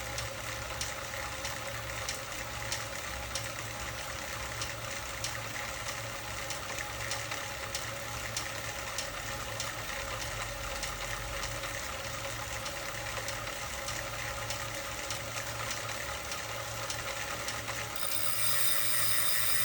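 Regular ticking over a steady mechanical hum. Near the end the sound grows louder and a steady whine with several tones comes in.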